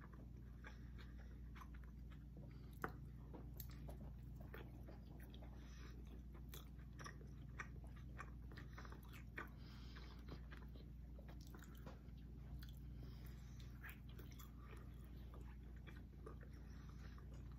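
Faint close-up chewing and biting of two people eating pizza: irregular small crunches and wet mouth clicks over a low steady hum.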